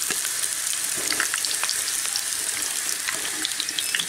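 Snake gourd pieces frying in hot mustard oil in a nonstick pan: a steady sizzle with scattered crackles and pops.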